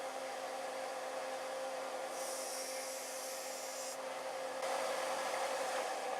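Sealey belt sander running with a steady motor whine. About two seconds in, a blade is held against the moving belt for a couple of seconds, adding a high hissing grind. The sander grows louder near the end.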